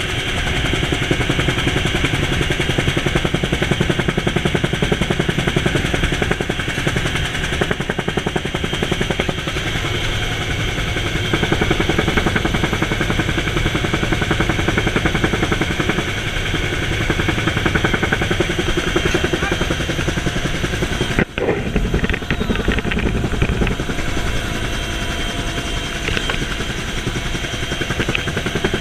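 Bell UH-1H "Huey" helicopter running, its two-bladed main rotor beating in a fast, even pulse with a steady high whine over it. The sound cuts out for an instant about 21 seconds in.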